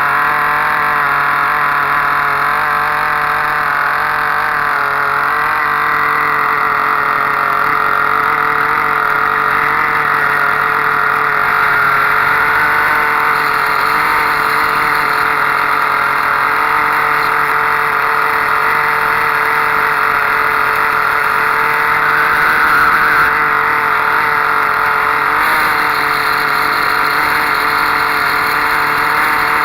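Soviet 0.78 cc Kolibri model diesel engine, running on an ether, kerosene and oil mix, running steadily under its own power with a slightly wavering pitch.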